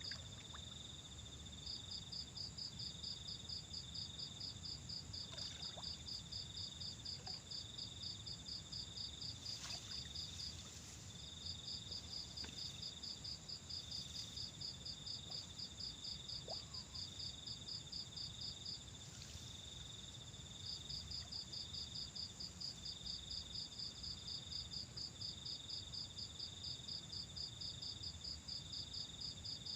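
Insects chirping: one calls in long bouts of rapid, even pulses, about four or five a second, broken by short pauses. A second calls in short repeated stretches over a steady high whine and a low rumble.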